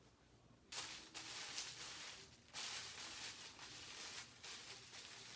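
Crinkly rustling of packaging being handled, in two long stretches starting just under a second in.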